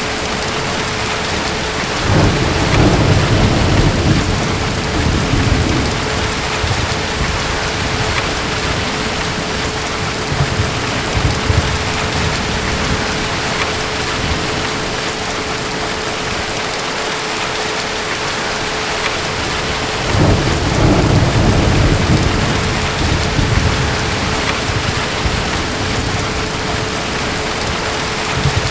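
Steady heavy rain with distant thunder rumbling twice, once a couple of seconds in and again about two-thirds of the way through.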